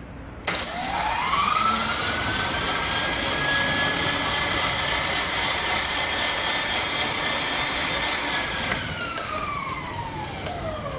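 Milling machine motor spinning up with a rising whine, running steadily for several seconds, then winding down with a falling whine near the end.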